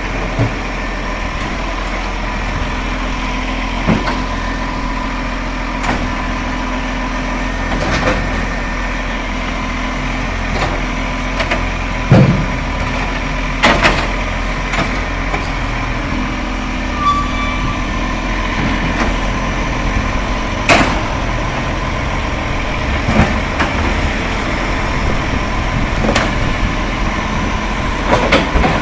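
Garbage truck running steadily, with short knocks and clanks every few seconds, the loudest about twelve seconds in.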